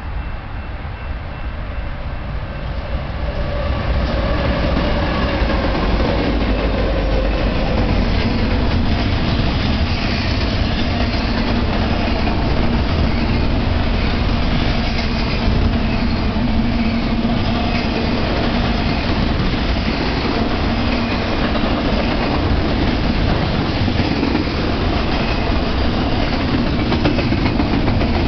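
BNSF double-stack intermodal freight train arriving and passing close by. The noise builds over the first few seconds, then holds steady as the container-laden well cars roll past.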